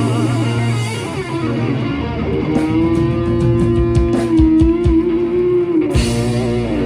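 Live blues-rock band playing: an electric guitar holds a long, bending note over bass and drums, with a cymbal crash near the end as the song winds to its close.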